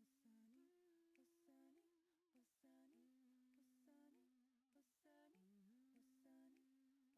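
Faint humming: a single voice holds long notes in a slow, calm melody, stepping between a few pitches.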